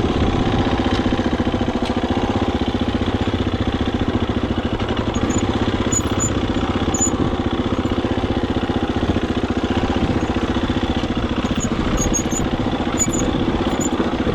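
Husqvarna FE250 dirt bike's single-cylinder four-stroke engine running at a steady, even speed.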